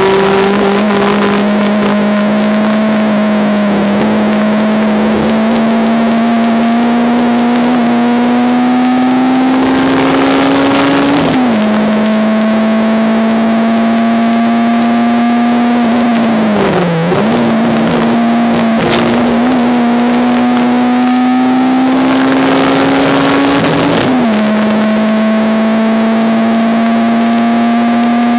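Honda Civic race car's engine heard from inside the car at sustained throttle. Its note climbs slowly through the revs and drops sharply on two upshifts, about a third of the way in and near the end, with a brief lift and dip in between.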